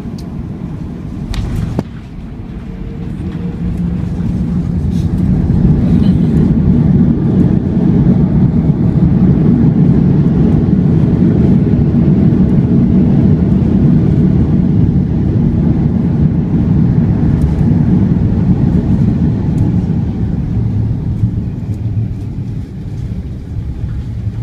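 Airbus A330-200 on its landing rollout, heard from inside the cabin: after a short knock near the start, a deep engine roar builds over a few seconds as reverse thrust comes on. It holds for about fifteen seconds, then eases off as the aircraft slows.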